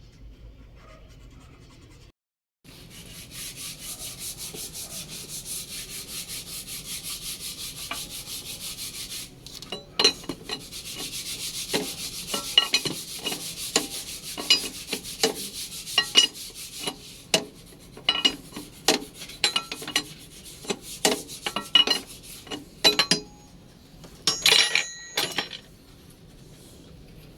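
Rapid, even scraping or rubbing for about seven seconds, followed by a long run of irregular sharp knocks and clicks, with a brief ringing clatter near the end.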